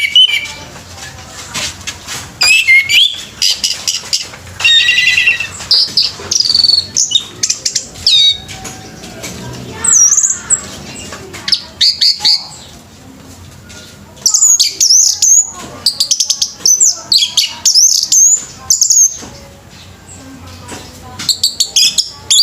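Orange-headed thrushes singing: loud runs of fast, varied whistled and chattering phrases, broken by short pauses.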